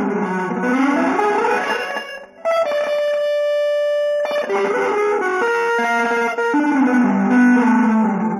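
Electric guitar playing quick runs of notes, with a short break a little after two seconds in, then one long held note before the fast lines resume.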